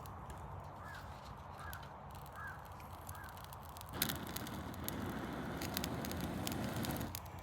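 A bird calls four times, short arched notes evenly spaced under a second apart. About halfway through comes a sharp click, then a steady rustling noise.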